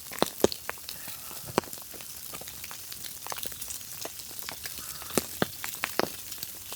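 Food sizzling in a cast iron pan over a wood fire, a steady hiss with irregular sharp pops and crackles.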